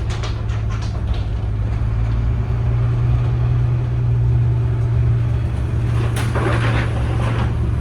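Tour bus engine running with a steady low drone, heard from on board while the bus drives; a brief rushing noise rises over it near the end.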